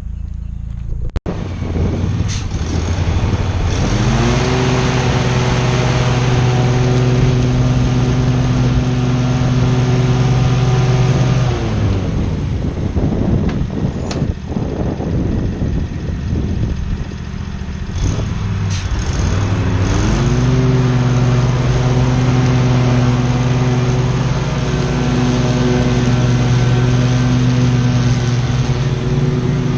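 Small gasoline engine of lawn equipment revving up to full throttle and holding steady. It drops back and runs unevenly in the middle, then revs up again and holds.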